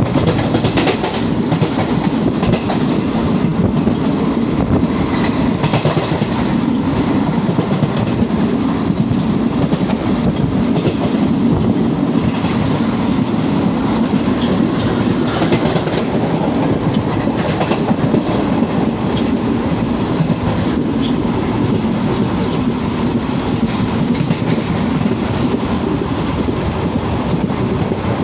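Passenger train running at speed, heard at an open coach doorway: a steady rumble of wheels on the rails with scattered clicks as the wheels cross rail joints.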